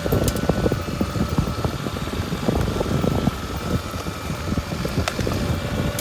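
Suzuki Super Sherpa's single-cylinder engine running as the motorcycle is ridden along a forest road, with a steady rumble and many small knocks and rattles from the rough track.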